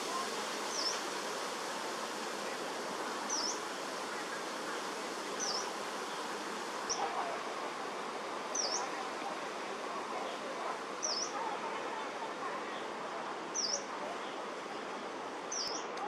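A small bird repeating a short, high chirp about every two seconds, over a steady background hiss.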